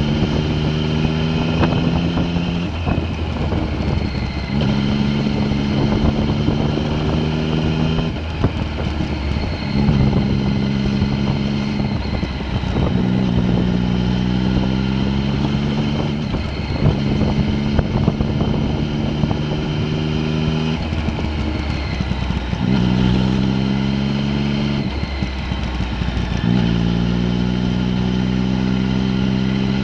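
A vehicle engine pulling under load, its note climbing slowly in pitch and then dropping back sharply every few seconds, over steady low road rumble.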